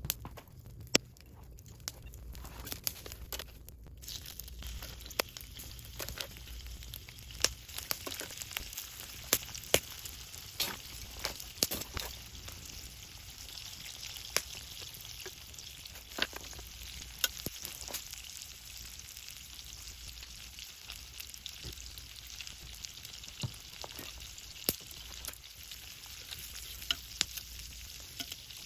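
Paella sizzling in a pan over campfire embers: a steady frying hiss that fills in after the first few seconds, with scattered sharp clicks and taps.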